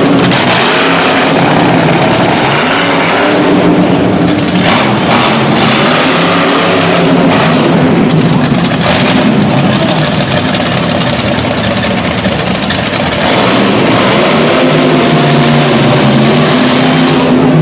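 Monster truck engine running hard and revving, loud and continuous, its pitch rising and falling as the throttle changes.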